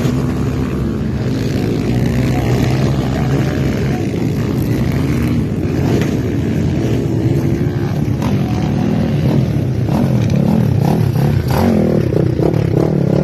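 Honda CRF150 dirt bike's single-cylinder four-stroke engine running under way. Its pitch rises and falls as the throttle is worked.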